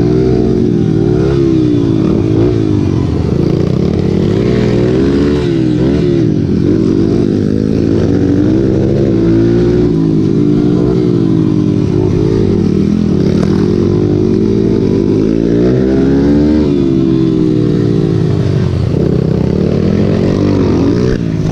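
Several racing motorcycle engines revving up and down together, their pitches rising and falling and overlapping as the bikes accelerate and shift.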